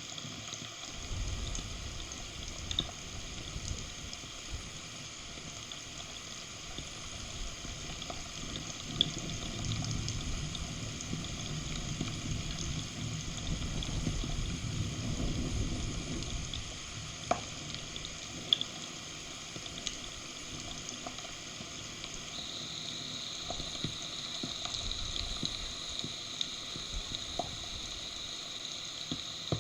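Heavy rain pattering steadily on the nest and the camera, with scattered sharp clicks of drops hitting close by. A long low rumble builds through the first half and then fades.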